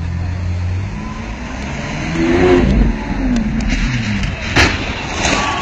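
Car engine running and revving, its pitch rising and falling about two to three seconds in, with a single sharp knock about four and a half seconds in.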